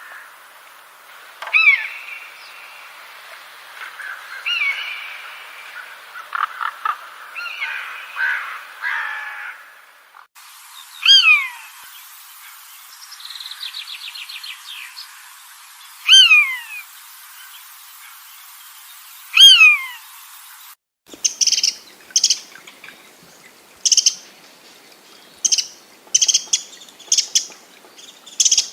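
Wild birds calling, in three separate recordings joined one after another. First a mix of chirps and warbles, then a loud downward-sliding whistled call repeated about every four seconds with a brief trill between, then quick clusters of short, high chirps.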